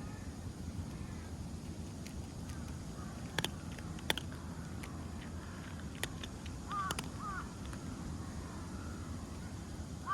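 A crow cawing twice in quick succession about seven seconds in, over a steady low outdoor rumble, with a few sharp clicks earlier on.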